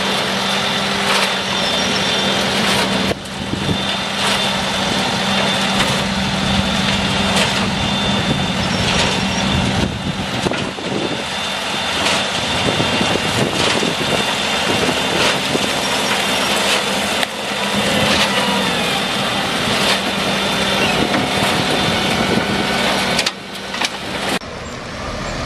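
Material screening machine running steadily, its motor hum under an even clatter of material knocking and rattling through it.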